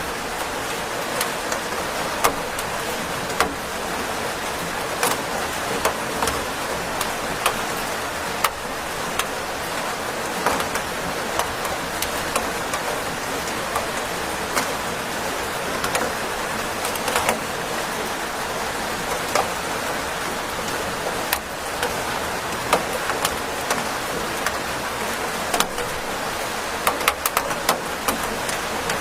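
Steady rain hiss with many sharp drops tapping at irregular moments.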